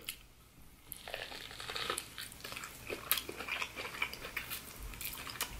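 Faint close-up chewing of hot Cheeto–coated corn on the cob: soft, irregular crunches and mouth clicks starting about a second in.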